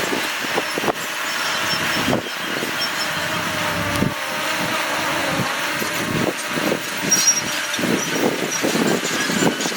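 Heavy earthmoving machinery at work: a diesel engine running steadily under irregular knocks and clatter.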